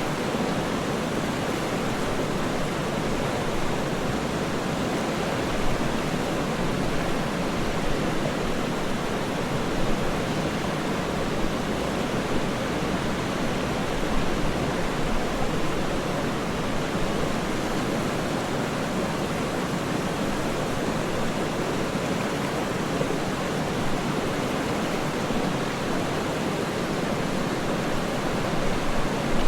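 Waterfall noise: steady, even rushing of falling water, unbroken throughout.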